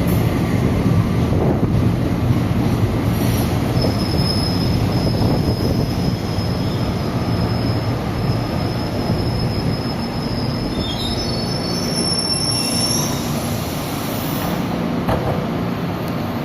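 Recife Metro electric train running through the station with a steady low rumble. A thin, high wheel squeal sets in about four seconds in, holds for several seconds and rises slightly in pitch before fading.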